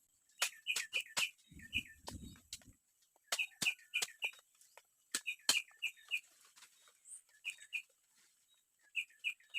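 A forest bird calling in quick runs of three to five short, sharp chipping notes, several runs in a row. Low muffled thumps come briefly about two seconds in.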